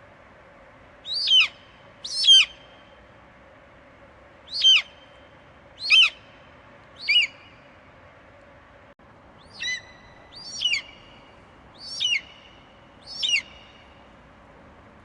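Eagle screeching: nine short, high calls that each slide down in pitch, spaced about one to two seconds apart, over a faint steady hiss.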